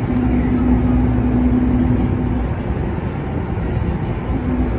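Kinki Sharyo-Kawasaki electric train running at speed, heard from inside the carriage: a continuous low rumble of the wheels on the track, with a steady hum that fades about halfway through and comes back briefly near the end.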